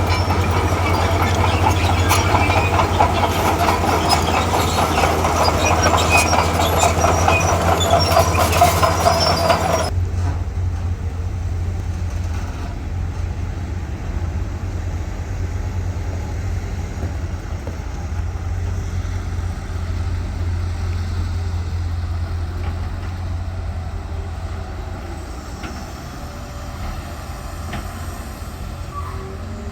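Diesel engine of a tracked earthmoving machine running under a steady drone, with its steel tracks clanking and rattling for about the first ten seconds; then the clatter stops abruptly and only a duller, steady engine drone remains.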